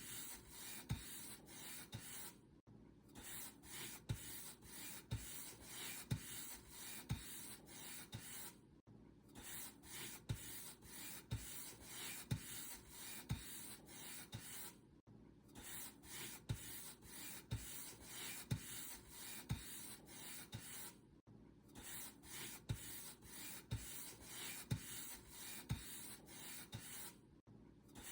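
Paint brush strokes on a surface: a regular, scratchy swishing stroke after stroke, broken by a brief pause about every six seconds.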